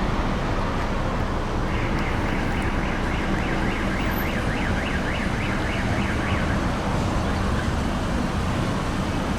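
Steady low rumble of vehicles and traffic. From about two to six seconds in, a faint siren or alarm warbles rapidly up and down, then fades out.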